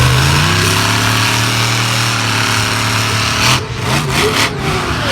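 A vehicle engine revving up, then holding a steady deep note; a little over three seconds in it breaks into rougher, noisier bursts.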